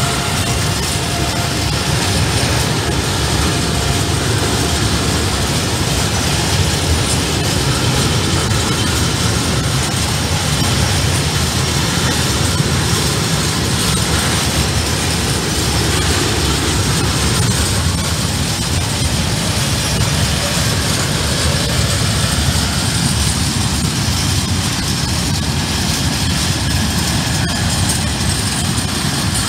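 Freight train of covered grain hopper wagons, hauled by an electric locomotive, rolling past close by. The wheels on the rails make a steady, loud rumble that carries on without a break.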